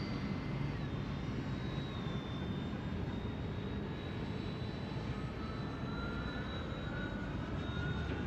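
Electric ducted fans of a Freewing A-10 80 mm model jet whining in flight, heard from the ground; the whine drops in pitch about a second in as the throttle comes back, then holds steady.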